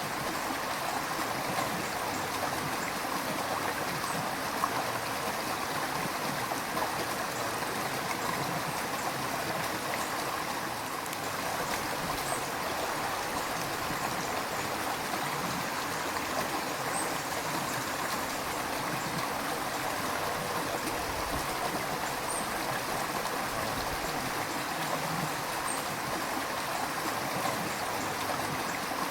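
River water flowing steadily over rocks, an even rushing with small gurgles and splashes.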